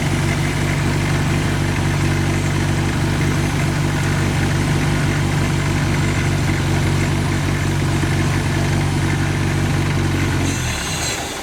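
A 32-year-old car engine idling steadily, then dying suddenly near the end, with a short hiss as it stops. It stalls because the air to the throttle was cut off while getting ready to put Seafoam into the intake.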